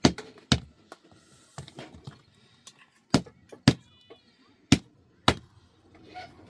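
Sharp wooden-sounding strikes, mostly in pairs about half a second apart, like repeated chopping or knocking blows. A brief high-pitched animal call comes about two-thirds of the way through.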